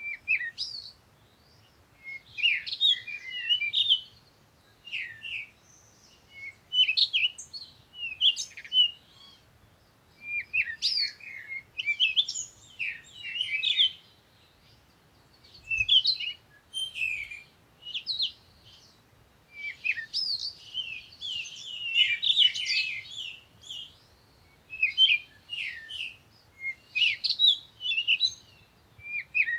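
Songbirds chirping and singing, short quick phrases of high chirps coming in bursts every second or two with brief pauses between them.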